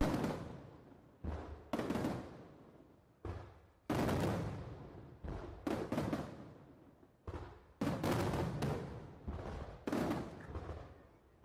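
Aerial firework shells bursting in quick succession, about a dozen sharp bangs, each trailing off in a rolling echo.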